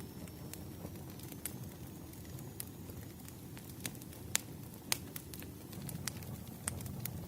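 Wood fire burning: irregular sharp crackles and pops from the burning logs over a low, steady rumble of flame. Two louder pops come a little past the middle.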